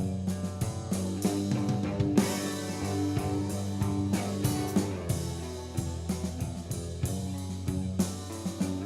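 Alternative rock band playing: electric guitar and bass over a drum kit with bass drum and snare hits.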